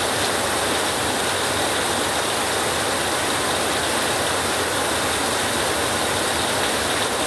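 Steady heavy rain on a tin roof: a dense, even hiss of drops on the metal, with no thunder rumble standing out.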